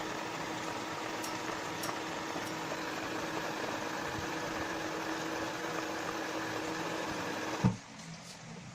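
Steady mechanical hum with an even hiss, as of a fan or appliance running. It stops with a short thump near the end.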